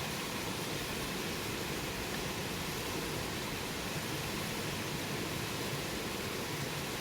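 Campfire burning with a steady rushing hiss and no distinct crackles or pops.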